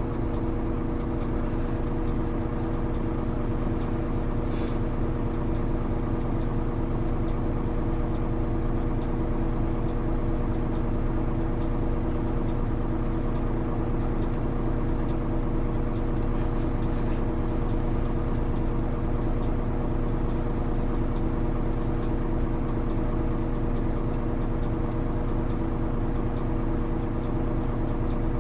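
Hino Rainbow HR (KL-HR1JNEE) route bus diesel engine, heard from inside the cabin, running at a steady speed. It makes a constant drone that does not change in pitch.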